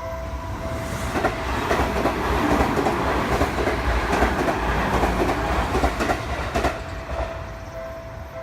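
Seibu Shinjuku Line electric train passing through a level crossing, its noise rising and falling over about six seconds, with wheels clicking over the rail joints. The crossing's warning bell rings at the start, is drowned out while the train goes by, and is heard again near the end.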